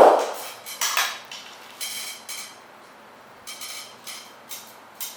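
A sharp knock at the start, then a scatter of short, light metallic clinks and rattles, as of hard objects being handled and set down.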